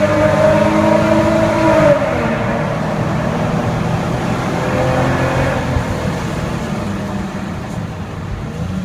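Turbocharged car engine under acceleration, with a rising turbo whine that cuts off about two seconds in as the throttle closes. The engine then runs on, gradually fading.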